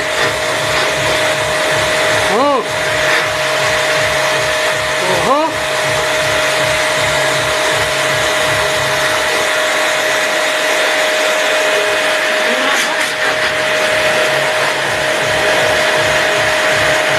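A motor-driven machine running steadily with a rushing noise and a constant high whine. Two short rising squeaks cut in briefly, a few seconds apart.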